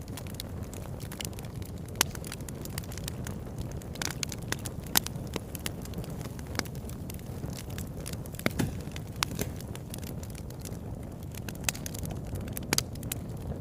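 Wood fire burning in a fireplace with a steady low rumble. Frequent sharp crackles and pops run through it, a few loud snaps standing out about two seconds in, around five seconds and near the end.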